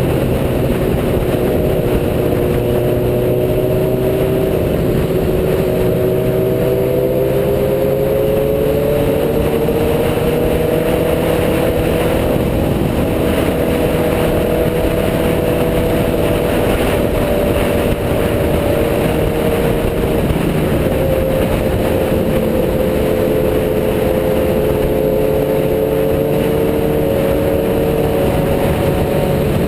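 Motorcycle engine running at a steady cruise under loud wind rush, its pitch drifting slowly up and down with small throttle changes.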